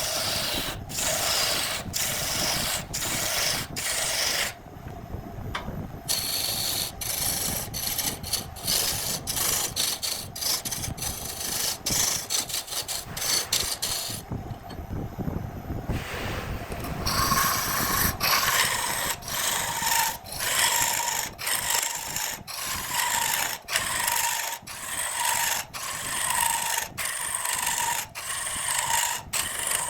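Woodturning lathe tool cutting and scraping spinning wood in repeated short strokes, the scraping broken every second or so by brief gaps.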